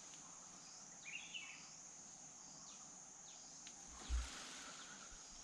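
Steady high-pitched insect drone, with a few faint short bird chirps over it and a brief low bump about four seconds in.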